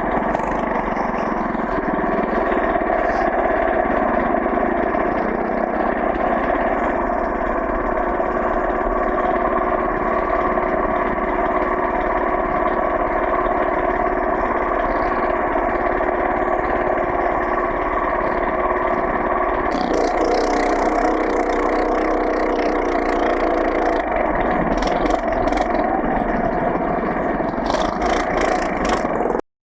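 Small minibike engine running steadily, with a change in its note about twenty seconds in. It cuts off abruptly near the end.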